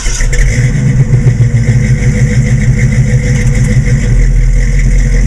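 Chevrolet 350 small-block V8 running at idle through headers and a Flowmaster exhaust, with an uneven, pulsing low note. It starts suddenly at the opening.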